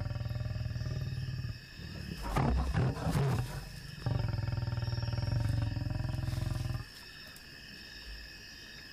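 Male lion growling: two long, low, buzzing growls with a rougher snarling burst between them, then quieter near the end. It is a threat aimed at people close by whom the lion has not accepted.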